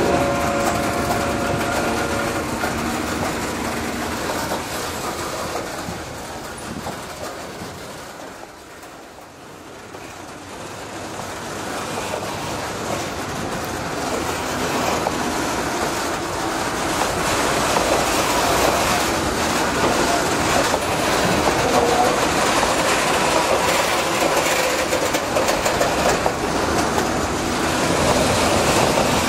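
Loaded coal hopper wagons rolling along the rails with a clickety-clack and a wheel squeal in the first couple of seconds, fading away. The sound then builds again as a DF5D diesel-electric locomotive works a coal train, its wagons rumbling and clattering loudly over the track.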